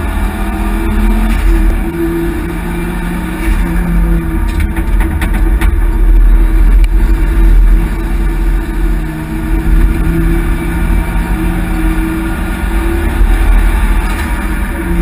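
Ford Focus XR5 Turbo's turbocharged five-cylinder engine heard from inside the cabin while racing, its pitch rising and falling as the driver accelerates and lifts through corners. A few short sharp clicks come about five seconds in.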